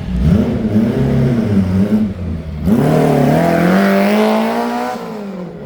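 A car engine accelerating hard: its pitch drops at a gear change about two and a half seconds in, then rises steadily through the next gear before easing off near the end.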